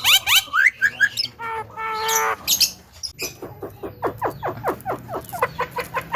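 Javan myna calling loudly in a varied run: a few quick rising notes, a short held note, then a string of falling notes at about four a second.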